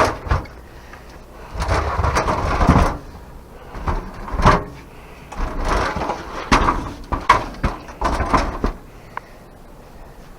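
Old porch roof boards being pried and pulled loose: a sharp knock, a couple of seconds of scraping and cracking wood, then a string of separate knocks and short scrapes.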